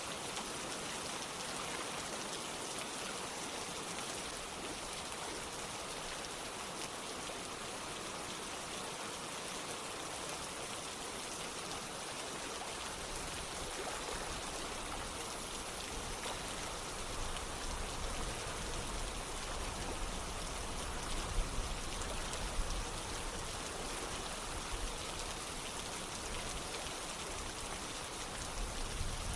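Steady rain falling with running water: an even hiss, with a low rumble coming in about halfway through.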